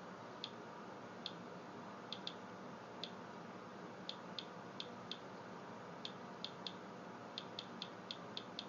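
Rad Alert Inspector Geiger counter clicking at irregular intervals, about eighteen clicks, over a steady faint hiss. Each click is one detected radiation count, here from a rain-soaked paper towel that reads above background.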